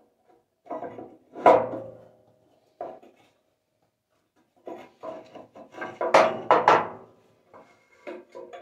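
Firebricks being handled and fitted inside a steel wood stove's firebox: bricks scraping and knocking against each other and the metal, with a sharp knock about a second and a half in and a run of clunks near the end.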